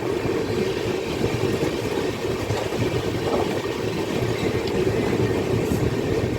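Passenger train running along the track: a steady, even rumble with no sudden events.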